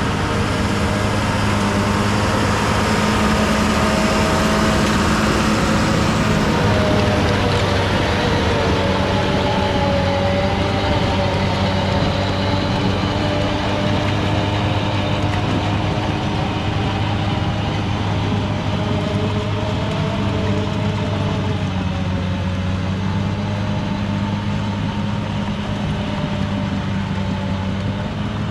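Rented bulldozer's diesel engine running steadily while working dirt, with a wavering higher whine above the engine note.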